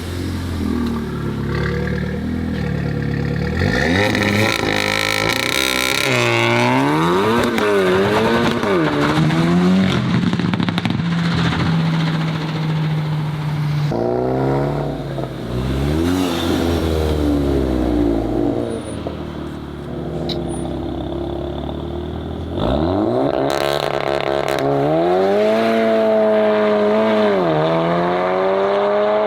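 Modified Volkswagen car engines revving and accelerating, the pitch climbing and dropping again and again, with a steady stretch in the middle. The sound changes abruptly twice, as a different car's engine takes over.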